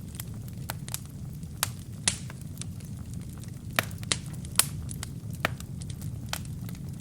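Wood fire crackling: irregular sharp pops and snaps over a steady low rumble of the flames, with the loudest pops a little before four seconds and at about four and a half seconds in.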